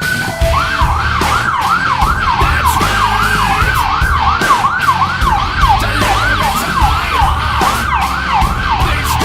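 Fire department apparatus siren in fast yelp mode: a rapid, regular up-and-down warble, about three cycles a second, that cuts off near the end.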